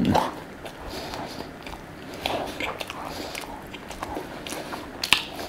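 Close-up mouth sounds of a person chewing a mouthful of filled croissant: soft wet smacks and small clicks, with a sharper click about five seconds in.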